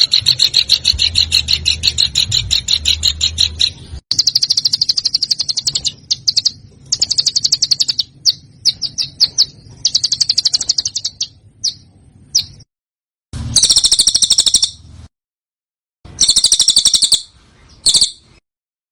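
Songbird song from a masteran tutoring recording: rapid trills of repeated sharp notes in bursts of up to about four seconds, broken by short gaps. The longest burst is at the start, and two dense bursts come in the second half.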